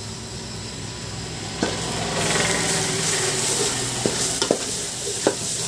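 Chicken curry masala sizzling in hot oil in a pan as it is stirred, with freshly added ground spices; the sizzle gets louder about one and a half seconds in, and a spoon clicks against the pan a few times in the second half.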